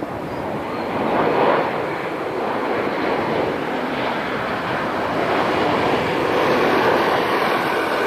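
Jet engines of a Boeing 787 Dreamliner running loudly: a steady, even rush of noise that grows slightly louder through the clip.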